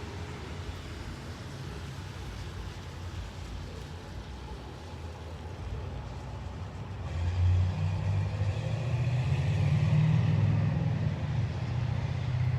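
Street traffic: a steady background hiss, then a road vehicle passing from about seven seconds in, its engine and tyre rumble swelling and then easing off.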